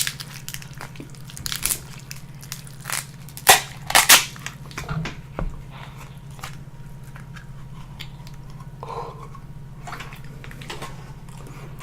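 Close-up crunching bites and chewing of crisp food, in irregular crackly strokes, the loudest two about three and a half and four seconds in, over a steady low hum.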